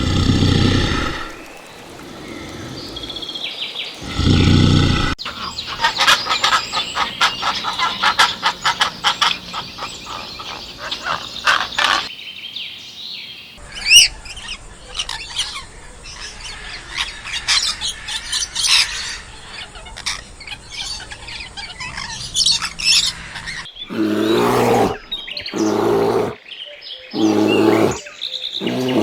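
A run of different animal sounds that cut from one to the next: two loud low calls, then many birds chirping rapidly for most of the middle, then four loud separate animal calls near the end.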